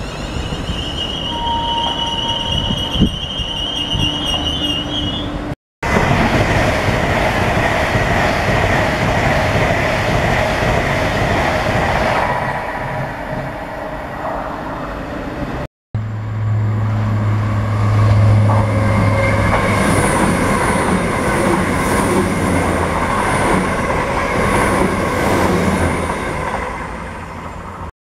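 Electric passenger trains running past on the main line, a London Midland Class 350 unit among them: a continuous rumble of wheels on rail, with a steady high whine in the first few seconds. The sound breaks off abruptly twice where separate passes are cut together.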